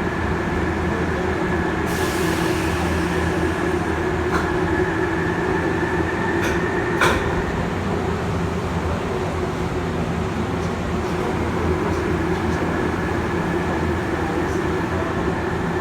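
Inside a Tokyu 8500 series field-chopper train running along the line: a steady rumble of wheels and traction motors. A high steady tone fades out about halfway through, and a few sharp clicks come around the middle, the loudest about seven seconds in.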